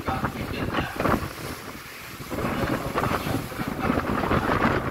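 Strong wind buffeting the microphone in gusts aboard a passenger ship at sea, easing briefly about two seconds in before rising again.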